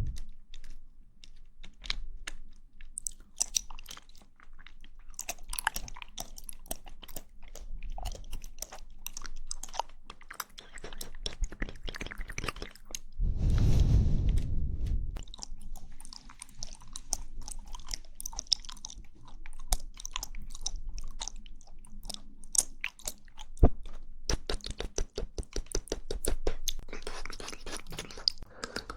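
Close-miked mouth sounds of eating jelly: wet clicks and smacks of chewing, with a louder low rumble lasting about two seconds near the middle and a quick run of clicks near the end.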